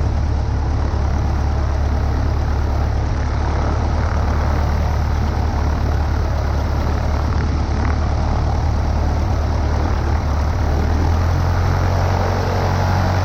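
Cessna 140A's four-cylinder piston engine and propeller running steadily with a deep, even drone.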